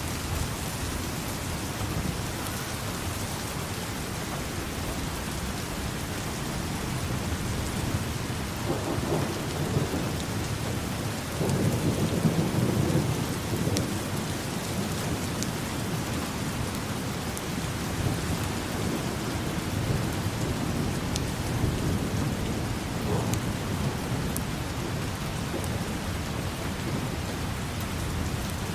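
Steady heavy rain falling, with rolls of distant thunder rumbling low, the longest and loudest a few seconds in from about a third of the way through, and a weaker roll past the middle.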